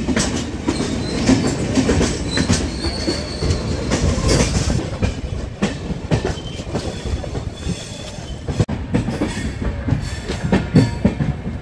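Passenger train running along the track, heard from aboard a coach: wheels clattering over rail joints, with brief high wheel squeals now and then.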